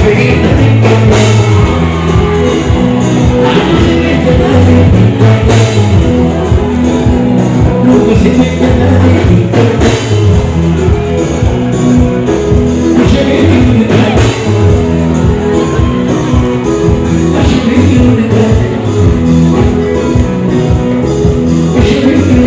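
Live band music played loud through a PA, with drum kit, bass and electric guitar, and a voice singing at times.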